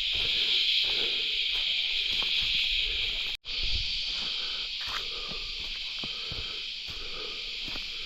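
Steady, shrill insect chorus in the forest, with one brief gap a little under halfway through.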